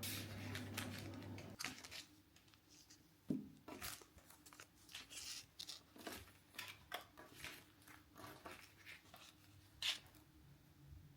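Scattered light clicks and rustles of small objects being handled, with a steady low hum that stops about a second and a half in.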